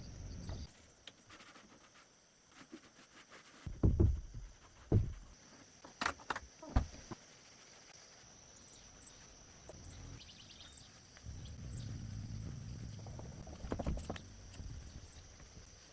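A few irregular knocks and thumps, four close together in the first half and one more near the end, over a low steady rumble.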